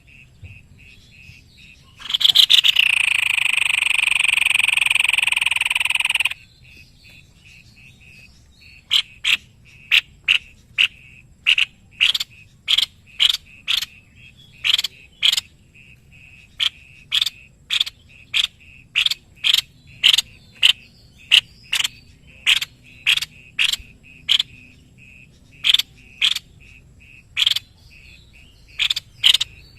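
Animal calls: a loud buzzy call starts about two seconds in with a falling sweep, holds steady for about four seconds and stops abruptly. A long series of short, sharp calls, roughly two a second, follows. Beneath them all runs a faint, steady, rapid pulsing chorus.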